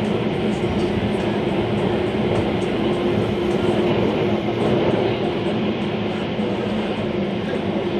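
Metro train running, a steady rumble with a constant low hum.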